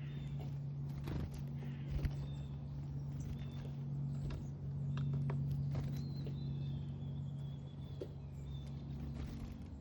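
A steady low hum, the loudest sound throughout, with scattered clicks and taps and faint, thin, high-pitched chirps from small backyard birds, one held for a couple of seconds past the middle.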